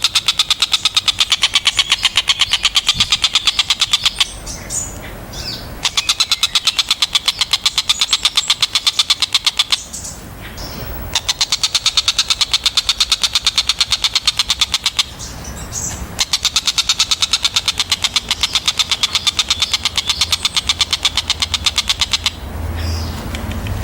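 Tengkek buto kingfisher calling: long, rapid strings of sharp, high notes, each bout several seconds long and separated by brief pauses.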